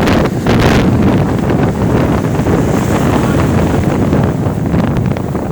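Strong wind buffeting the microphone over sea surf.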